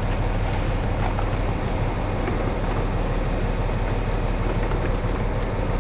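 Tractor engine running steadily under a continuous mechanical clatter from a poly pipe winder reeling in lay-flat irrigation pipe.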